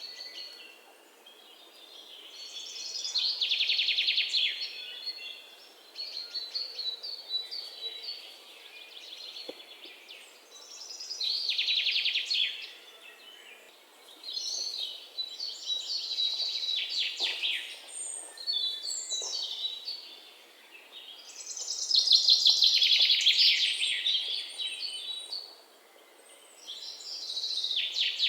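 Songbird singing: loud phrases of rapid trills, each one to three seconds long, come every few seconds, with softer chirping between them.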